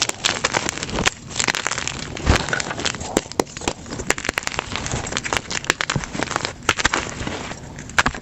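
Plain blocks of gym chalk crushed by hand: dense, irregular crunching and crackling, played back at double speed.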